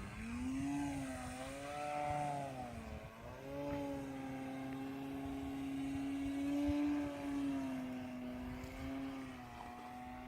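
Hacker Ultimate 1000 radio-controlled model airplane's motor and propeller whining in flight, its pitch rising and falling as it manoeuvres, dipping about three seconds in and then holding steady. Wind buffets the microphone with a low rumble underneath.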